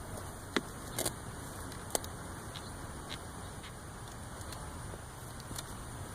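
A few short, sharp knocks or clicks, three of them clear in the first two seconds, over a steady background hiss.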